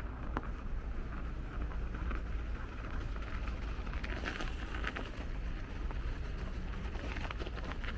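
Wind buffeting the microphone and tyre noise from a bicycle rolling along a city street, a steady low rumble with a brief rising hiss about four seconds in.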